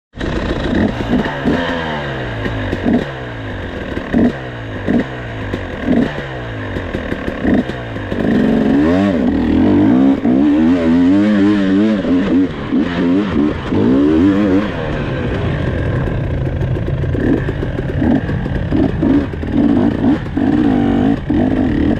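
Off-road vehicle engine repeatedly blipped, its pitch dropping after each throttle stab, then revved harder and longer in rising and falling surges for several seconds as it works up over a rocky ledge, before settling into steadier running with smaller throttle changes.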